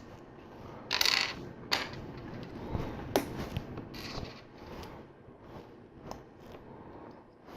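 LEGO plastic bricks being handled and pressed together: irregular clicks and clacks, with a brief rustle about a second in.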